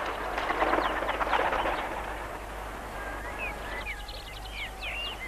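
Small birds chirping in short rising and falling calls, several in quick succession in the second half. Over the first two seconds a louder rushing noise fades out.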